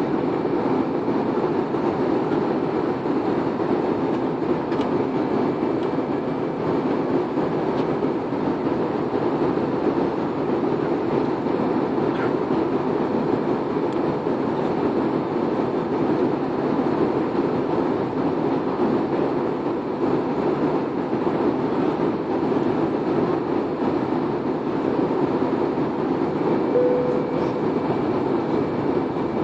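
Steady cabin noise of an airliner in flight: engine and airflow noise heard from inside the passenger cabin.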